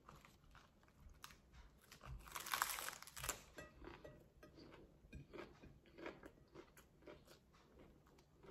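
Crunchy bite into a lettuce-leaf taco about two seconds in, the loudest moment, followed by crisp, crackly chewing.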